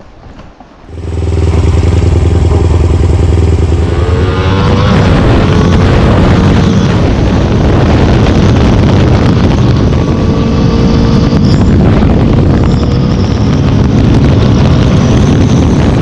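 Kawasaki motorcycle engine comes on loud about a second in and runs steadily, then from about four seconds its revs climb and drop again several times as the bike rides off, under heavy wind noise on the microphone.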